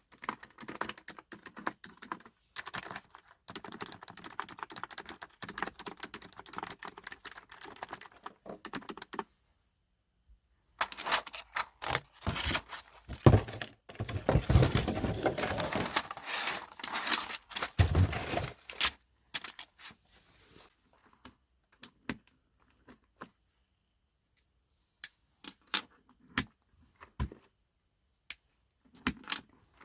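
Typing on a computer keyboard: fast runs of key clicks, a pause, another run mixed with heavier thuds, then only scattered single keystrokes near the end.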